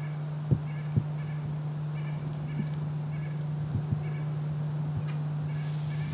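Short, nasal bird calls repeated every half second or so over a steady low hum, with two dull thumps in the first second.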